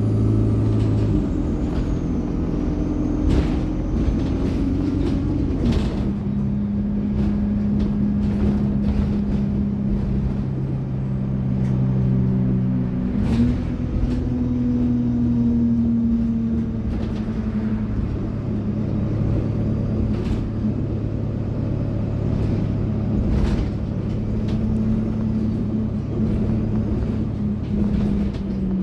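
Alexander Dennis Enviro 200 bus under way: the diesel engine and Allison automatic gearbox run steadily, with the note stepping as it changes gear about a second, six seconds and thirteen seconds in. A faint turbo whine and scattered rattles and clicks ride over it.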